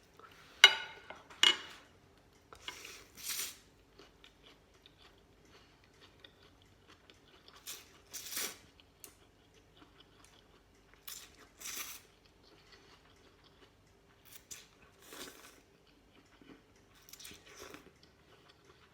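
A person eating noodle soup: chewing and slurping in short bursts every few seconds, with two sharp clinks about a second in.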